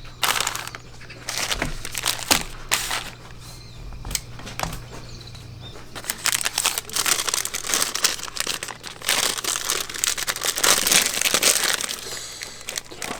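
Crinkling and rustling of something being handled: a dense run of small crackles, busiest in the second half.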